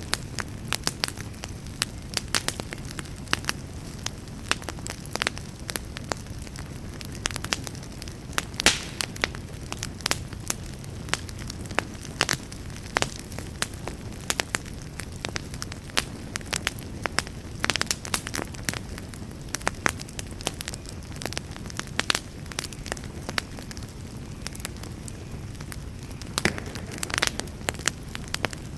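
Wood campfire crackling, with frequent irregular sharp pops and snaps over a steady low rush.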